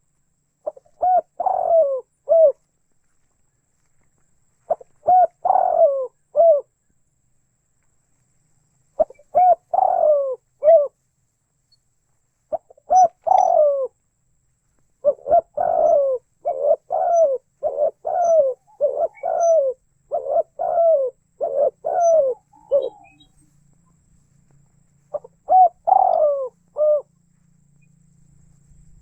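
Spotted dove cooing: phrases of several short coos come in groups, separated by silent gaps of a few seconds. About halfway through there is one longer unbroken run of coos.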